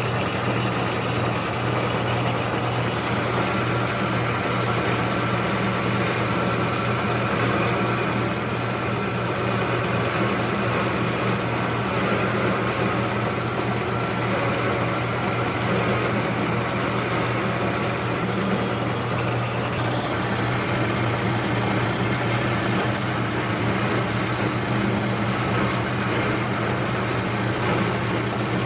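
Metal lathe running steadily while turning down a large metal workpiece, with a constant motor hum and the noise of the cut.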